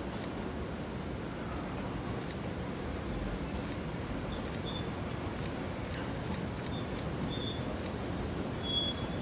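A 700 series Shinkansen train rolls in along the platform and slows, its low rumble growing louder as it comes closer. From about three seconds in, a thin high squeal of its brakes rises over the rumble.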